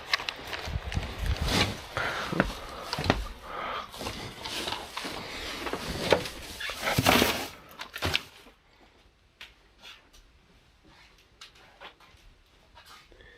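Rustling and clattering of things being handled indoors, with many sharp knocks and clicks. About eight seconds in it drops to a much quieter background with only a few faint clicks.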